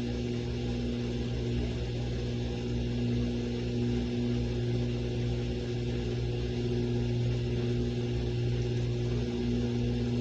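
Samsung washing machine running its rinse cycle: a steady motor hum with a few held tones that does not change.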